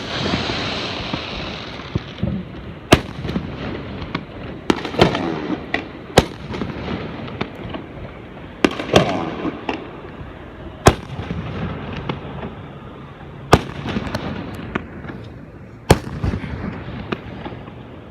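Fireworks display: sharp bangs of bursting shells at irregular intervals, every one to three seconds and sometimes two in quick succession, over a continuous crackling rumble.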